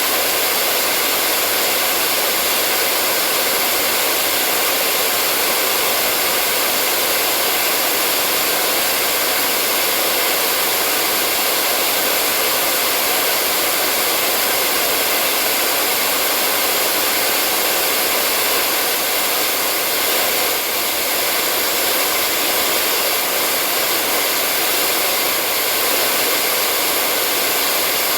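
Electric hair dryer running steadily, a constant whoosh of blown air with the faint hum of its motor.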